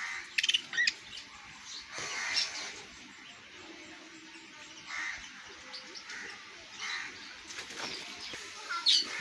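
Pet cage birds chirping at intervals, with a quick flutter of wings just under a second in.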